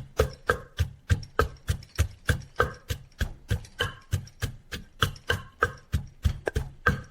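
Pestle pounding in a mortar for papaya salad, a steady run of knocks at about three a second, each with a dull thud.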